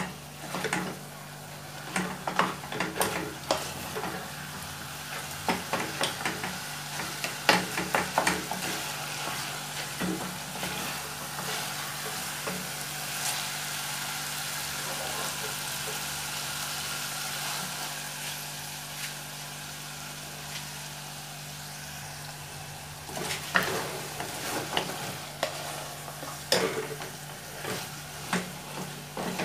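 Wooden spoon stirring and scraping chunks of meat around a saucepan, over a steady sizzle as the meat fries in its sauce. The stirring strokes stop for a while in the middle, leaving the sizzle, and start again near the end.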